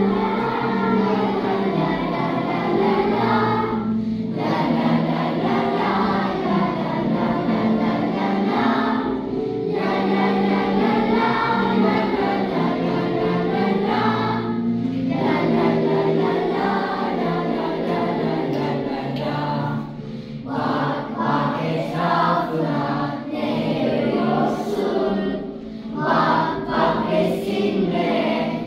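A class of primary-school children singing a song together as a choir, in phrases with short pauses between them.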